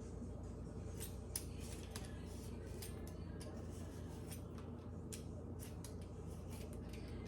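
A mango being peeled by hand: short, irregular scraping strokes of a blade through the skin, about one or two a second, over a steady low hum.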